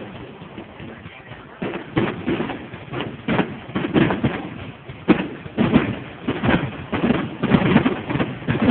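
Fireworks going off: an irregular run of bangs and thuds, about a dozen in the stretch, some sharp and some followed by a brief rumble.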